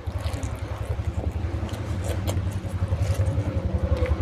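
Chewing a large mouthful of rice and mutton curry, picked up close by a clip-on microphone as a loud, fluttering low rumble with scattered wet mouth clicks.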